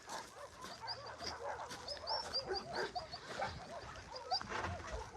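Faint chorus of many shelter dogs barking, yelping and whining over one another, with a run of quick high chirps in the first half.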